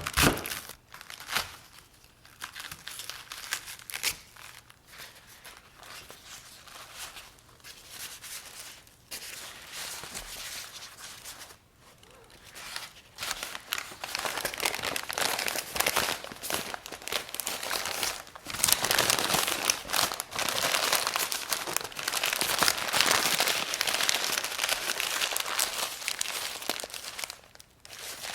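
Crinkling and rustling of wrapping material as napa cabbage is wrapped for storage. It comes in sparse rustles at first, then turns louder and steadier about halfway through.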